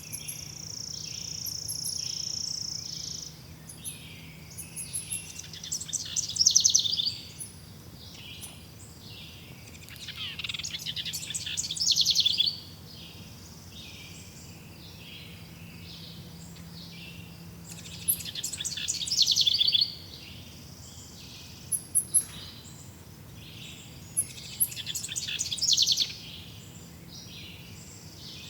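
Songbirds singing in woodland: loud, fast trilling phrases come every few seconds, with a few short high chips between them. Underneath runs a steady, evenly pulsing high chirping, like crickets.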